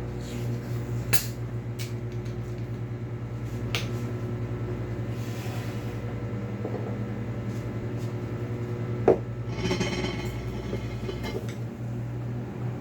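Microwave oven running with a steady hum while the lid on a container of nearly boiling water rattles in a fast, even flutter: a sign the water is close to boiling over. A few sharp clicks come through it, the loudest about nine seconds in, followed by a short hiss.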